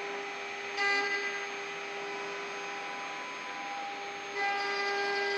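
CNC wood-turning lathe running, a steady machine whine that swells louder about a second in and again near the end.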